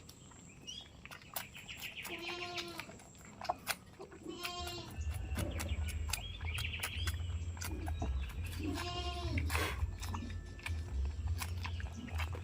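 Goats bleating: three separate bleats, with scattered clicks and a low rumble that starts about halfway through.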